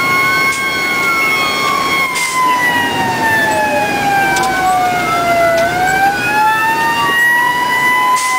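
Two emergency-vehicle sirens wailing at once, out of step. One rises and falls over about five seconds; the other falls slowly through the middle and climbs again near the end.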